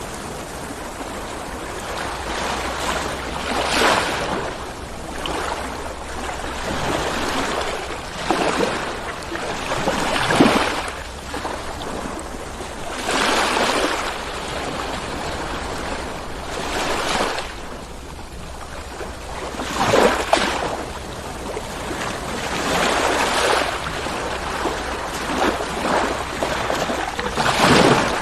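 Ocean waves rolling in and breaking on the shore, each surge swelling and washing back every few seconds.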